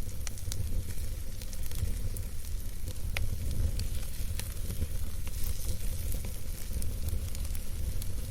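Wood campfire burning, with scattered sharp crackles and pops over a steady low rumble of flame.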